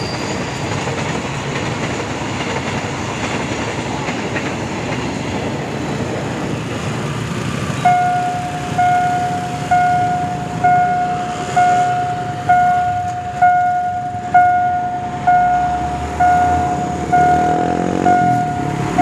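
Freight train wagons rolling past with a steady rumble. About eight seconds in, a level-crossing warning bell starts ringing, one decaying strike about every second, and keeps going.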